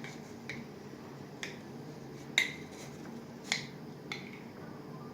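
A metal spoon clinking against a glass and a salt bowl while salt is spooned into water: about seven light, irregular taps, each with a short ring.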